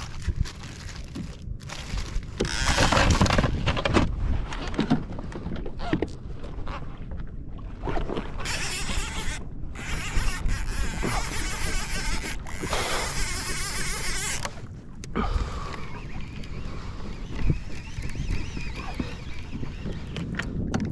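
Water splashing and sloshing around a kayak, with wind gusting on the microphone in uneven surges and a few small knocks.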